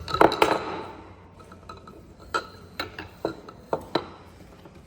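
Sharp clinking taps of hard objects knocking together: a quick cluster right at the start, then about five single taps roughly half a second apart.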